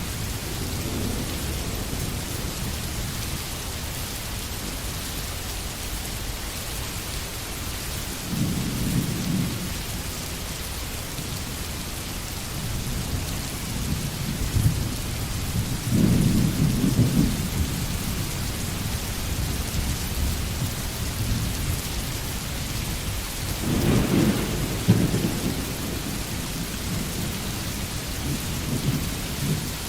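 Steady rain falling in a forest, an even hiss, with deep low rumbles swelling up about eight, sixteen and twenty-four seconds in.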